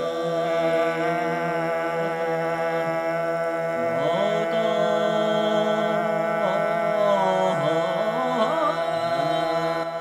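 Chor dagu, Mongolian polyphonic choral singing: several voices hold a steady drone together, and from about four seconds in a melody line moves and bends above it.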